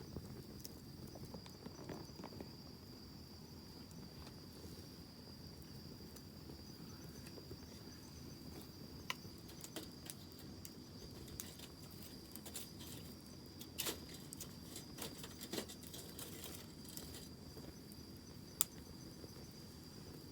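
Wood campfire crackling with scattered sharp pops over a low, steady rumble of burning; the loudest pop comes near the end. A steady high insect trill runs underneath.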